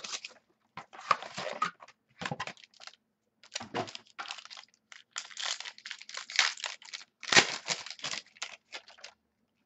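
Plastic or foil wrapping on a box of baseball cards being torn open and crinkled in a run of short, irregular bursts that stop near the end.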